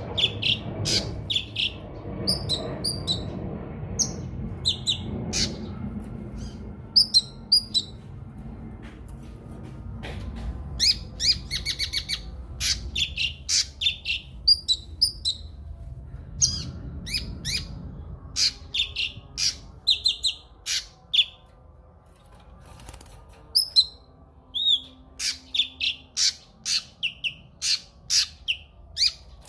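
Cucak kinoi singing: quick runs of short, sharp high chirps and whistles, broken by brief pauses, over a faint low background rumble.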